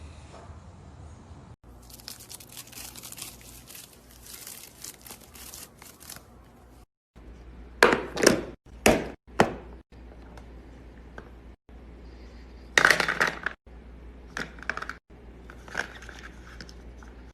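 Crackling and crunching as material is crushed or cut: a dense run of fine crackles, then three loud crunches in quick succession, one more loud crunch, and a few softer ones near the end.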